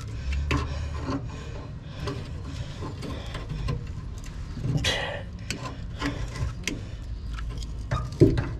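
Irregular clicks, knocks and rubbing over a steady low rumble, with a scrape about five seconds in and a loud thump near the end.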